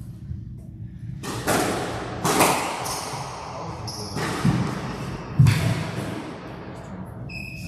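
Squash rally: the ball is struck hard several times and thuds off the court walls, each hit echoing, with shoes squeaking on the court floor in short high tones.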